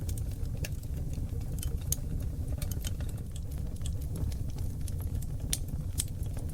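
Oak logs burning in a fireplace: a steady low rumble of flame with frequent, irregular crackles and pops.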